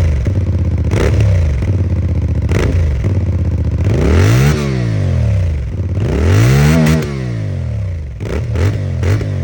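CFMoto 450MT's parallel-twin engine being revved on the stand with the throttle: several quick blips, and two longer revs in the middle that climb and fall back to idle.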